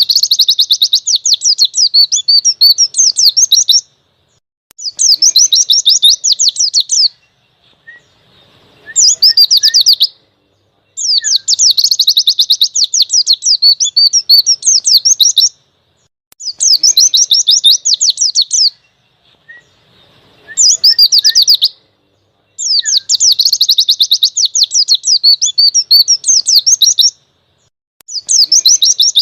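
Pleci (white-eye) singing its 'ngalas' song: phrases of rapid, high, chattering notes a few seconds long, repeated about eight times with short pauses between.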